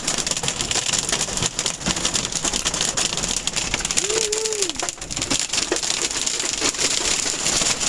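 Wind-driven hail and rain pelting a car's windshield and roof, a dense rapid patter of small ticks over a steady rush of rain.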